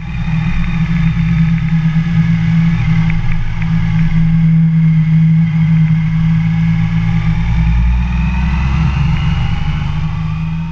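Motorcycle engine running steadily, with a strong low hum and a whine that rises slowly in pitch over the last few seconds.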